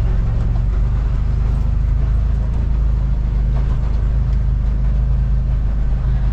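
Motor vehicle running steadily, a low engine and road rumble with no change in pace.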